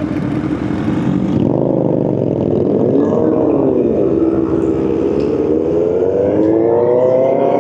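Several motorcycle engines running together on the move, their notes at different pitches bending up and down, over a steady rushing noise. In the second half one engine climbs steadily in pitch as it accelerates.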